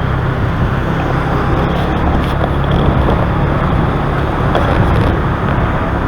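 Motorbike engine running steadily under way, mixed with the even noise of road traffic.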